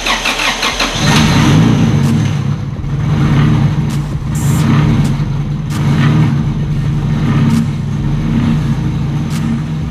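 Turbocharged 1997 Honda Civic engine cranking briefly, catching about a second in, then running at idle with a slow rise and fall in level.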